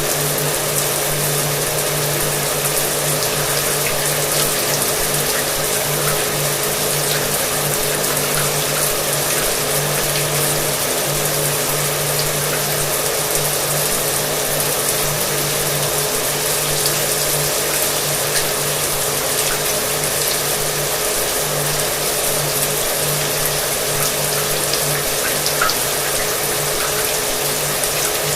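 Shower water running in a steady hiss, with a hair dryer's motor humming steadily underneath.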